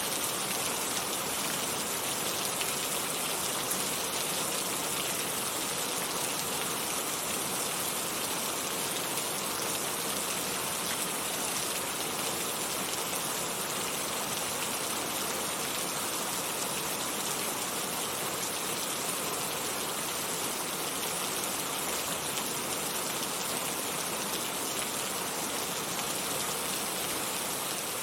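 Heavy rain falling steadily as a dense, even hiss of drops, with no thunder or other events.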